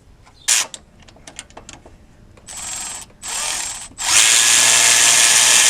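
Cordless power driver backing out a bolt on the transmission cooling line bracket: a few light clicks, two short pulls of the trigger, then a longer, loud steady run starting about four seconds in.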